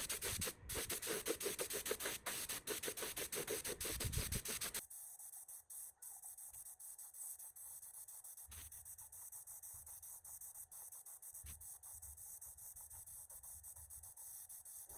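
Quick rhythmic abrasive rubbing strokes, as in hand-sanding or scrubbing a part, that stop abruptly about five seconds in. A faint low background with a couple of soft knocks follows.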